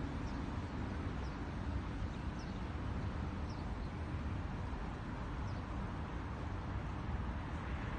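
Small birds chirping: short, high, falling chirps about once a second, over a steady low background rumble.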